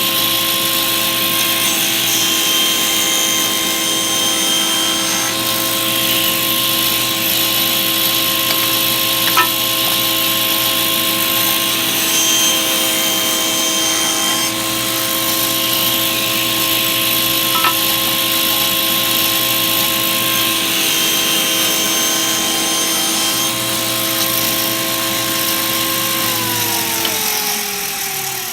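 Ridgid TS3650 table saw running steadily with a new zero-clearance insert fitted, then switched off near the end, its motor winding down with a falling pitch.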